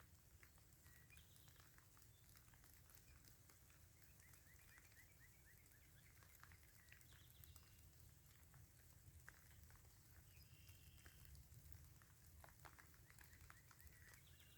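Near silence: faint light rain ticking and pattering, with scattered faint bird chirps, including a quick run of short notes a few seconds in.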